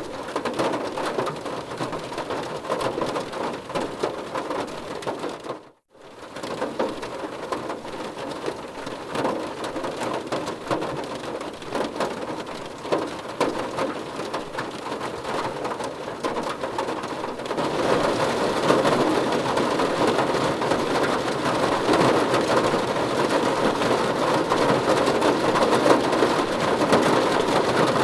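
Heavy rain falling steadily on a surface, a dense even patter. It cuts out briefly about six seconds in, then comes back and gets louder and heavier about seventeen seconds in.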